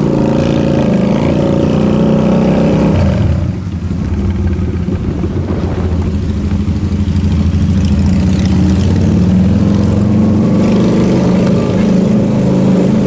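Motorcycle engine running steadily under way. About three and a half seconds in, the engine note dips briefly, then carries on at a lower pitch.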